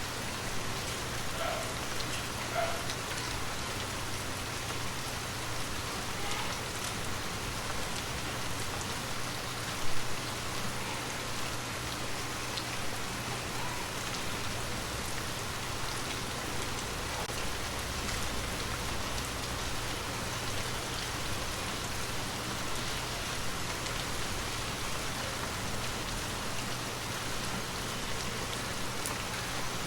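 Gentle rain falling steadily, with scattered drops pattering on a surface and one louder drop or tap about ten seconds in.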